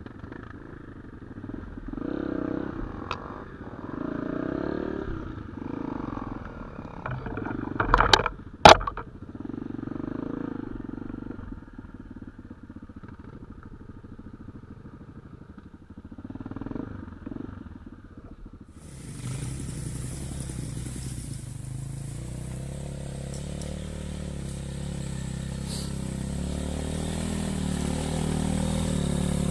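Dirt bike engine. First comes muffled, uneven low sound with two sharp knocks about eight seconds in. Then, after an abrupt change, an engine runs steadily and grows louder towards the end.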